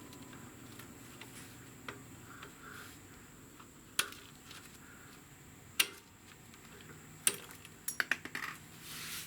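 Small metal clicks and taps from hands and tools working a retaining clip off the motorcycle's rear brake pedal linkage, a few scattered clicks and then a quick run of them near the end.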